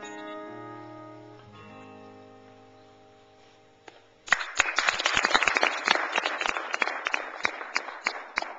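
Acoustic guitar's last chord ringing out and slowly fading. About four seconds in, audience applause breaks out and keeps going.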